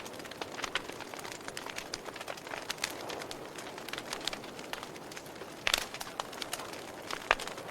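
Wood fire crackling in a fireplace: a steady hiss with scattered small clicks and two louder pops, one about three quarters of the way in and one just before the end.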